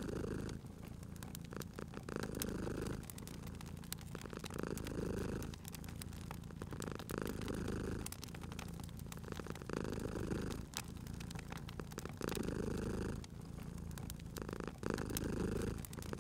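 Domestic cat purring in a slow in-and-out rhythm, about one full breath every two and a half seconds, with the scattered sharp pops and crackles of a wood fire throughout.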